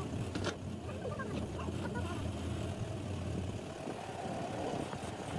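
Diesel truck engine running steadily at idle, a low even hum, with a few light clicks and faint voices over it.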